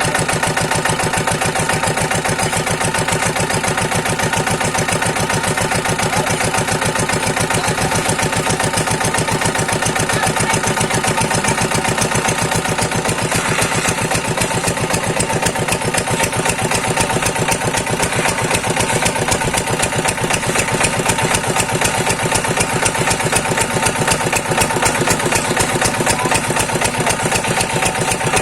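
Diesel engine driving a water pump, running steadily with a fast, even beat.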